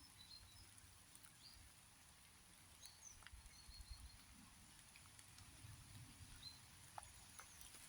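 Faint ambience of light rain: scattered drop ticks, with short high chirps from small birds now and then.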